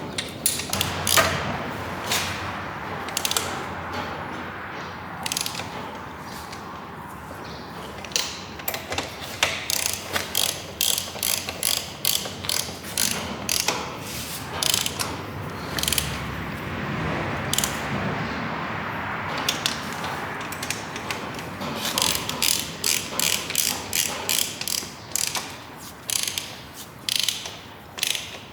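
Hand ratchet wrench clicking in quick runs of clicks with pauses between them, as fasteners are turned.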